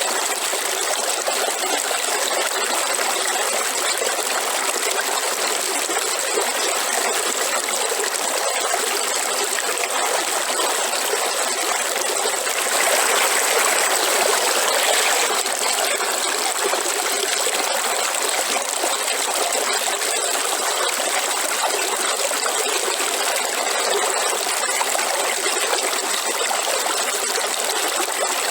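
Waterfall: a steady rush of falling water, a little louder for a couple of seconds about halfway through.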